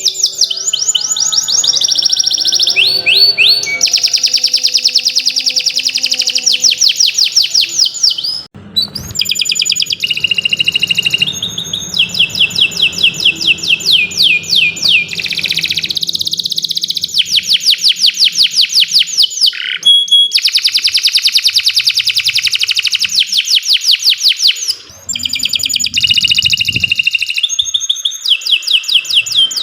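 Domestic canary singing a long, loud song of rapid trills: runs of fast repeated high notes, each run switching to a new note every second or two, with brief breaks about eight and twenty-five seconds in.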